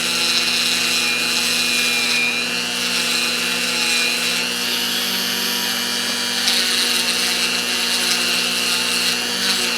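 Dremel rotary tool running steadily with a small wire wheel scrubbing a steel wrench, a constant motor whine under a scratchy rubbing. The wire wheel is nearly worn out.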